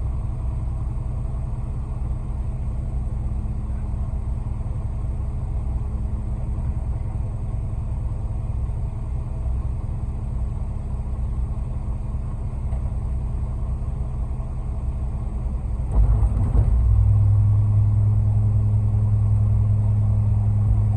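Concrete mixer truck's engine running steadily. About 16 seconds in it grows louder and holds a strong, steady low hum.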